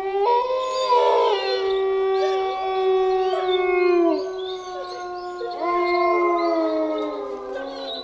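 Wolves howling: several long, drawn-out howls overlap. One drops away about four seconds in, and another rises in near six seconds.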